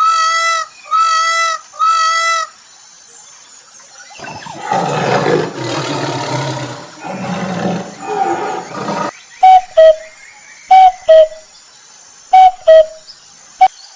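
Several different animal calls in turn: four short, evenly spaced pitched calls, then a few seconds of a rough, noisy call, then three pairs of short, loud calls that each fall in pitch.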